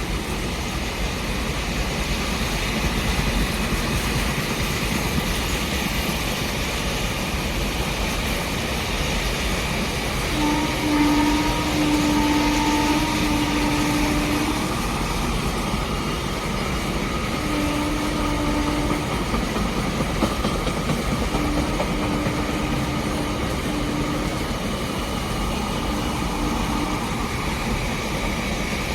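Indian Railways train running past with a steady rolling rumble. Its horn sounds a long blast about ten seconds in, then several shorter blasts.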